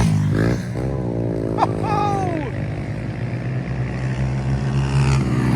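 Pit bike engines revving and easing off as the bikes race round the track, the pitch falling and rising with the throttle. A brief sliding high-pitched sound comes about two seconds in.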